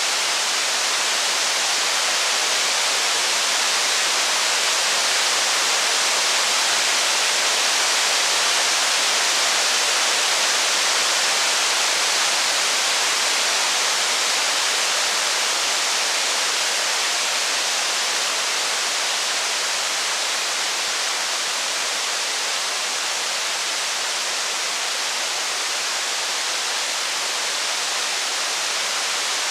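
Steady heavy rain: an even, unbroken hiss that holds the same level throughout, with no thunder.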